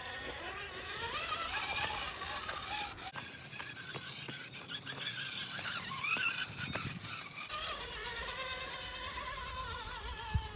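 Electric motor and gear whine of an RC rock crawler rising and falling in pitch with the throttle, with occasional clicks and scrapes from the tires and chassis on rock.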